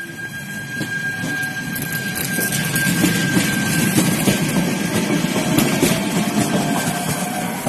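Feve 3600-series electric commuter train rolling slowly past, its wheels and running gear rumbling steadily with a high steady whine over it and scattered clicks from the wheels on the rails, getting louder toward the middle as the cars go by.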